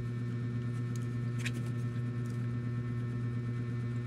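Steady low hum, with a brief crisp crunch about one and a half seconds in from biting and chewing a breaded corn dog.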